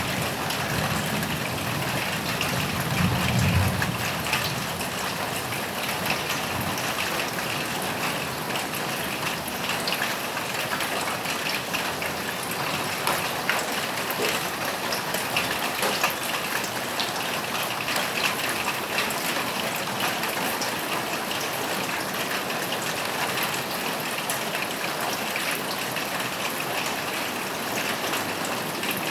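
Steady rain falling on a roof, an even hiss with scattered drop ticks. A low thunder rumble dies away in the first few seconds.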